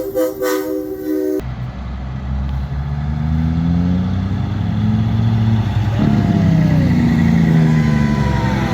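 A truck's multi-note air horn sounding in quick pulses for about the first second and a half, then a semi truck's diesel engine pulling past, its pitch slowly rising as it accelerates.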